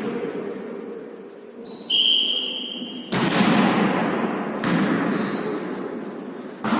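A ball being played and bouncing on the floor of a sports hall during a volley tennis rally, with a lot of echo. A high steady tone lasting about a second sounds about two seconds in, and another starts near the end.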